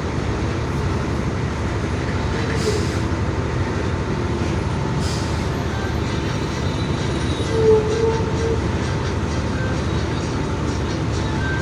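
Steady low rumble of a moving truck's engine and road noise, with a brief higher-pitched tone about two-thirds of the way in.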